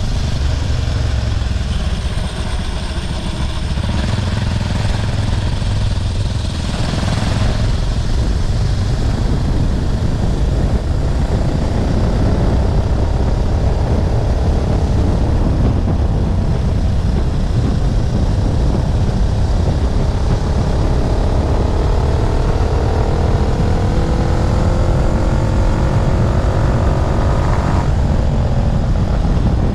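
212cc single-cylinder four-stroke engine of a motorized bike running under way, with heavy wind rumble on the microphone. From about twenty seconds in, its pitch climbs steadily as it accelerates, then drops suddenly a little before the end.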